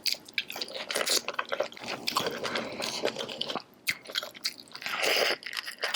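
Close-miked wet eating sounds of someone chewing saucy seafood: a dense run of small wet smacks and clicks, louder for a moment about five seconds in.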